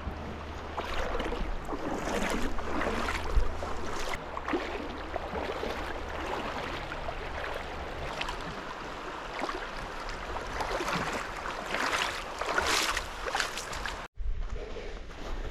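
River water rushing and splashing in uneven surges, as at a wade through a shallow glacial river crossing. It cuts out for an instant near the end.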